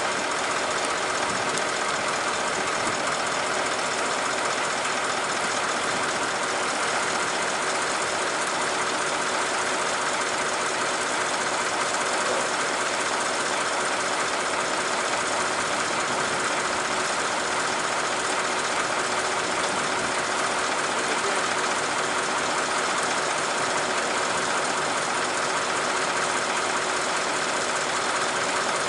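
Engine of a 1977 International fire engine running steadily, with the truck's water pump in gear and pumping.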